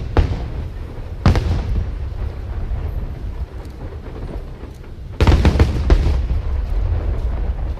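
Aerial fireworks shells bursting over a continuous low rumble of echoing booms. A sharp bang comes just after a second, then a rapid cluster of bangs and crackles about five seconds in.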